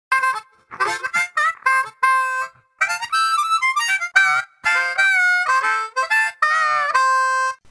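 Harmonica playing a short melody of separate notes and chords with brief pauses between phrases.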